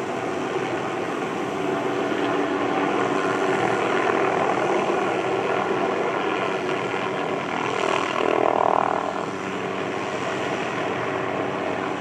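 Helicopter with a suspended aerial tree-trimming saw, its rotor and engine running steadily. There is a brief louder swell about eight seconds in.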